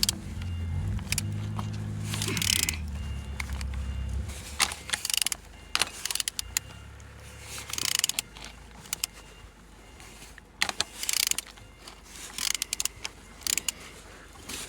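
Opel/Vauxhall A14NET 1.4 turbo four-cylinder engine being turned over by hand with a wrench on the crankshaft: scattered clicks and short hisses, with compression present on all cylinders. A low engine-like hum runs underneath for the first few seconds and fades out.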